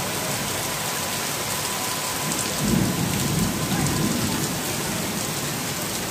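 Heavy rain pouring steadily on a street. A low rumble swells about two and a half seconds in and fades out about two seconds later.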